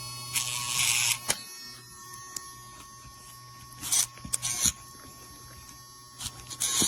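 Electric dog nail grinder running with a steady motor hum and whine, with a few short rasping passes as the grinding drum touches a nail.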